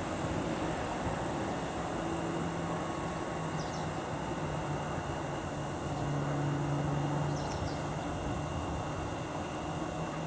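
Steady hum of a stationary Tobu 8000-series electric train's auxiliary equipment: a low drone that swells and fades, loudest a little past the middle. Faint short high chirps come twice.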